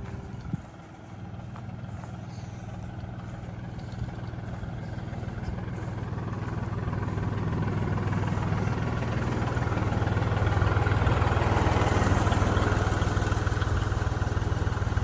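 Kubota L3560 tractor's diesel engine running steadily, growing louder over the first ten seconds or so and then holding level.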